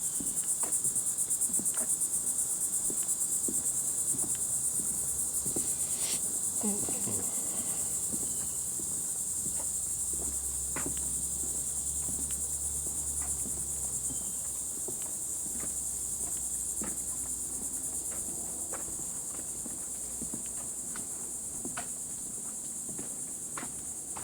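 Steady, high-pitched chorus of insects, with scattered light clicks and taps.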